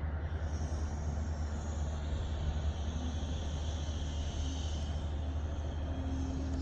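Steady low rumble of harbour machinery working a cargo ship's timber unloading, with a fainter high hiss swelling and fading in the middle.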